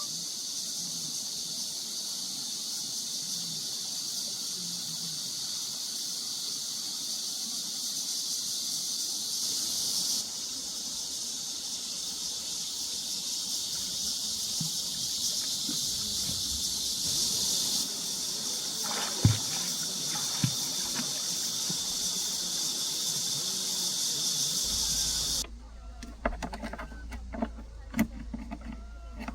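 Cicadas in a dense summer chorus, a steady high buzz. About four seconds before the end it stops abruptly, leaving a low rumble and a few knocks.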